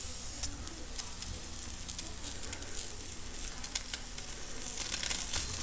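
Weeden 645 toy steam traction engine's boiler hissing and sizzling as steam leaks from its pressure valve, whose new gasket is not holding, with scattered small crackling ticks.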